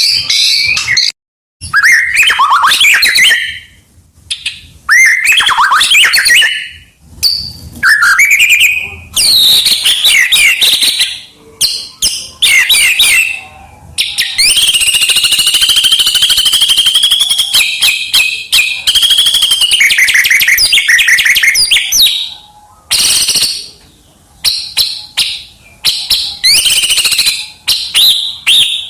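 White-rumped shama singing: loud, varied phrases of gliding whistles and rapid notes, broken by short pauses, with one long unbroken run of song through the middle. The song is packed with mimicked calls of other birds.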